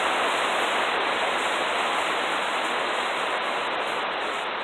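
Steady heavy rain, an even hiss of downpour.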